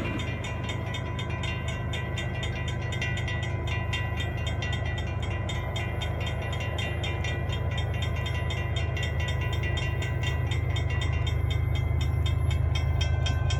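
Approaching freight train led by Florida East Coast diesel locomotives: a steady low engine rumble that grows slowly louder. Above it runs a fast, even ticking that thins out near the end.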